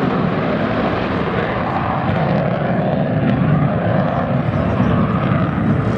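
Lockheed Martin F-22 Raptor flying a low demonstration pass: the steady, loud noise of its twin Pratt & Whitney F119 turbofan engines.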